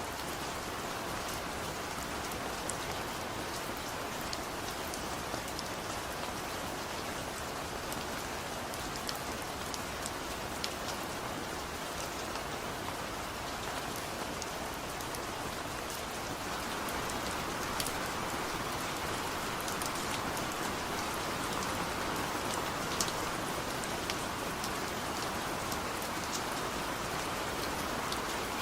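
Steady rain falling, with individual drops pattering distinctly on a surface; it gets a little heavier about halfway through.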